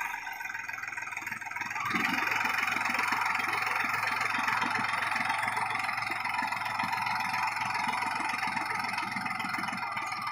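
New Holland 4710 tractor's diesel engine running steadily, getting louder about two seconds in.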